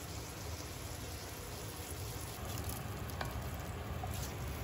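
Scallops searing in an enamelled cast-iron pot, sizzling steadily, with a few light taps as a wooden spatula turns them.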